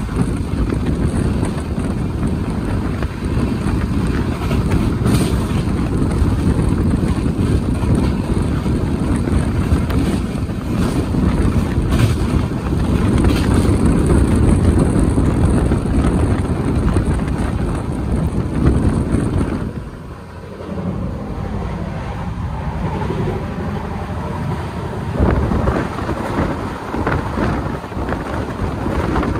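Express passenger train running at speed, heard from inside a coach by an open door or window: a steady low rumble of wheels on track mixed with wind noise on the microphone. About two-thirds of the way in the noise drops off for about five seconds, then builds again.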